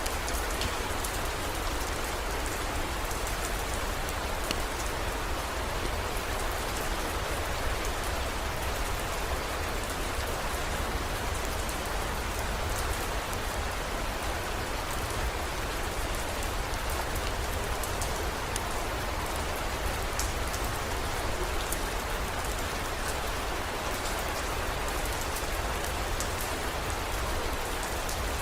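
Heavy rain falling steadily, with scattered sharp drop ticks, over a constant low rumble.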